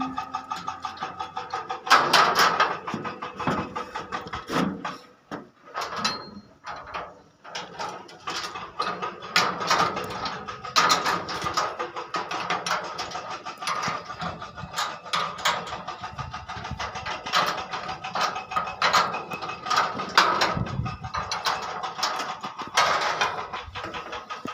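Vibrating screening machine sifting crushed andesite stone: a dense, irregular clatter of rock knocking, with a brief lull several seconds in.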